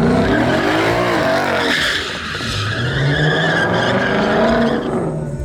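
Truck engine revving hard, its pitch climbing through the first second, while the tyres spin and squeal in a burnout.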